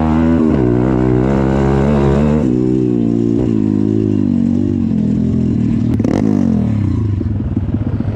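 Off-road motorcycle engine heard from on board under hard acceleration, its note climbing, breaking once for a gear change about two and a half seconds in, and climbing again. From about halfway the throttle closes and the note falls away, settling into an uneven low running near the end.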